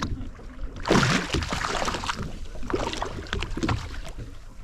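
Water sloshing against the hull of a drifting boat, with a steady low rumble and a loud noisy surge about a second in.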